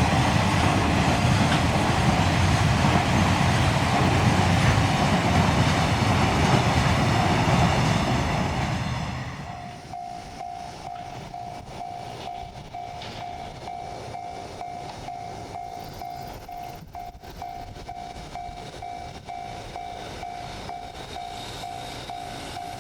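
Freight train running past on the rails: a loud, steady rumble of wheels and wagons that dies down after about nine seconds. A faint pulsing tone then repeats about twice a second.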